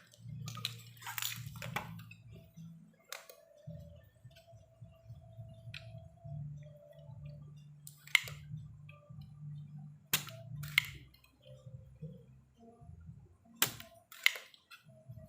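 Scattered sharp clicks and taps, about eight of them and loudest near the middle and the end, over a low uneven hum.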